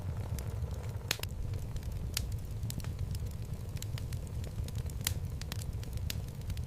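Wood fire burning in a fireplace: a low steady rumble of flames with irregular crackles and pops of the logs, a few sharper snaps among them.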